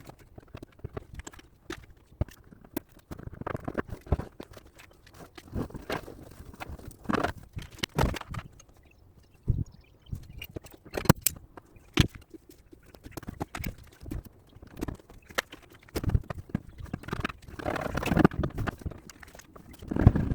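Hand tools working the dented steel wheel arch panel of a car: irregular knocks and sharp clicks at uneven intervals, with a few brief stretches of rubbing and handling noise.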